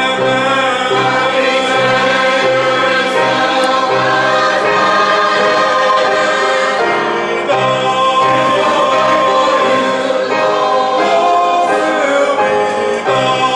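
Choir singing a sacred piece with instrumental accompaniment over a regular low beat.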